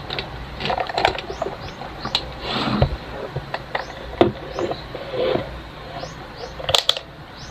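Scattered clicks, taps and rustles of handling a multimeter and its test leads while checking a power cord's plug, with a few faint short high chirps among them.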